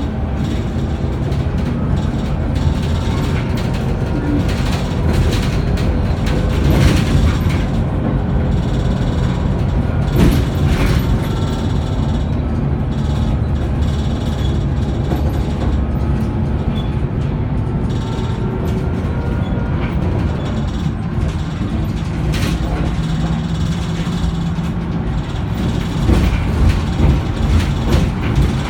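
Scania K94UB 6x2 bus driving, heard from on board: a steady deep engine and road rumble, with a faint whine that rises and falls with speed. A few sharp knocks and rattles from the body come through, about seven and ten seconds in and again past twenty seconds.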